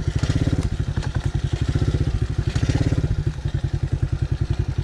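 TaoTao DB14 110cc single-cylinder four-stroke dirt bike engine running at low revs, pulsing steadily, with a few light clattering knocks.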